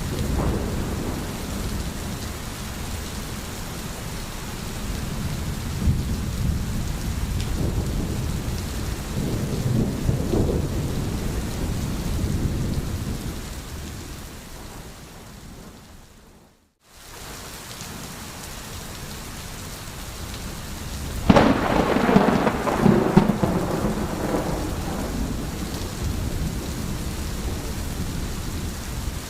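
Steady rain with low rolling thunder. The sound fades out briefly a little past halfway and comes back, then a loud thunderclap breaks in about two-thirds of the way through and rumbles on for a few seconds.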